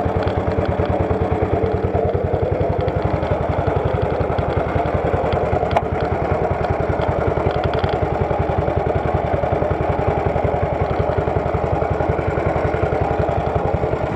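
1929 BSA 500 side-valve single-cylinder motorcycle engine running at low revs with a steady, even beat.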